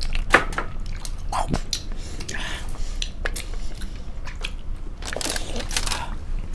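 Several people biting into and chewing steamed chicken momos (dumplings), close-up mouth sounds with irregular wet smacks and clicks.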